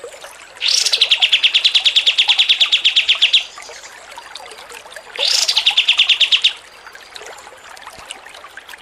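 A songbird's fast, continuous chatter, the kind kicau fans call 'ngocor receh': two runs of rapid, evenly repeated notes at about a dozen a second, each opening with a quick upward sweep. The first run lasts about three seconds and the second, shorter one comes a little after halfway.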